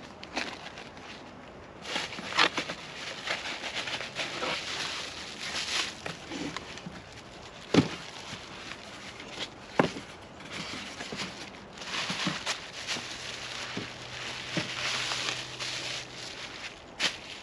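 Rustling and crackling with scattered sharp clicks and knocks; the loudest knock comes about eight seconds in.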